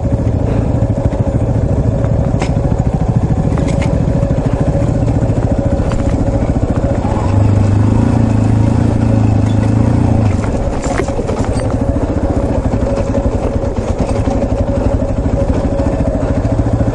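Yamaha Serow 250's air-cooled single-cylinder engine running at low revs on a slow descent, a little louder for about two and a half seconds in the middle, with a few sharp clicks.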